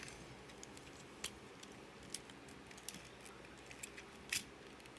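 Sparse, faint clicks and taps of a plastic toy figure's parts being handled and fitted, about one every second, the loudest near the end.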